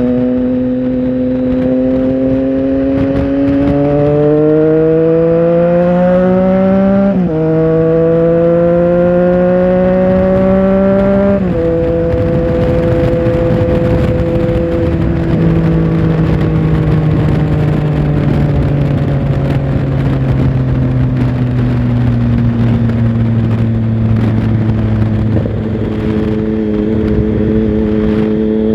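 Triumph Tiger Sport 1050's inline three-cylinder engine heard on board while riding: it pulls up through the revs, drops in pitch at an upshift about seven seconds in, pulls again, then eases off at about eleven seconds and runs on with slowly falling revs. Near the end the pitch steps up, as at a downshift.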